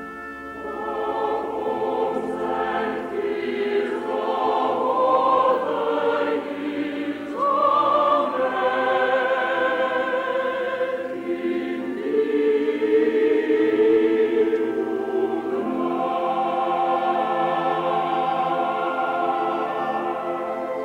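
A choir singing a Christmas carol, with many voices together and no clear words.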